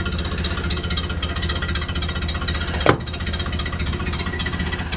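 1930 Ford Model A's four-cylinder flathead engine idling with a steady, rapid, even beat. One sharp click sounds about three seconds in.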